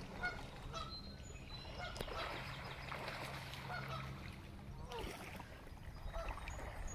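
Canada geese honking faintly: a long series of short honks, several a second at times.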